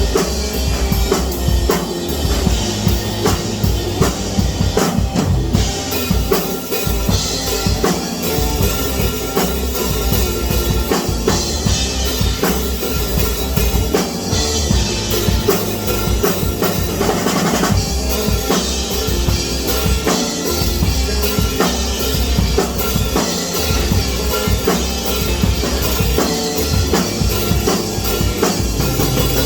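Music with a drum kit playing a busy, steady beat on bass drum and snare, over other pitched instruments.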